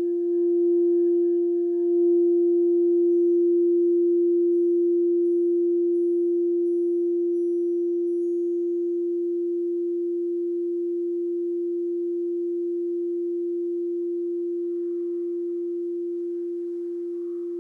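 Alchemy crystal singing bowl sounding one long, nearly pure tone with faint overtones. It swells slightly about two seconds in, then slowly fades.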